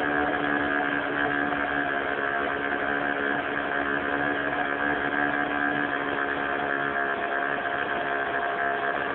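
O.S. 46 FX two-stroke glow engine of an RC airplane running at steady high revs, with a high, even buzz.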